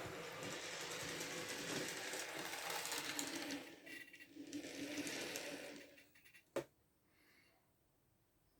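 N gauge model train running on the track: the small locomotive motor whirring and the wheels rattling over the rails. It dips briefly, then stops about six seconds in, followed by a single sharp click.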